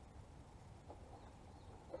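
Near silence, with a few faint light clicks.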